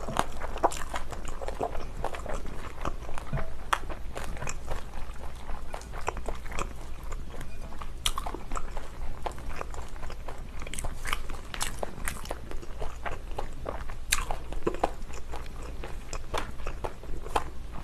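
Close-miked chewing of a mouthful of spicy kimchi: wet, irregular crunches of fermented napa cabbage.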